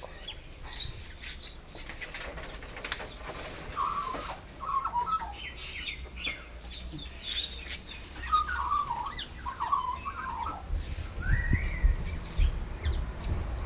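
Birds calling close by in a series of short chirps and warbling phrases, with a low rumble coming in near the end.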